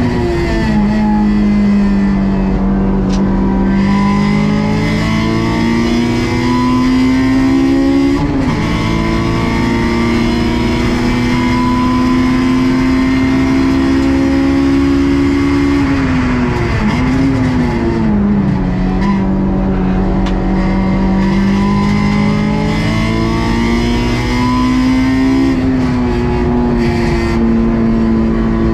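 Honda S2000 AP2's stock 2.2-litre four-cylinder engine running high in its rev range under load, its pitch climbing slowly through long pulls. The revs drop at gear changes about half a second in and near 8 s, and dip and climb back between about 16 and 19 s.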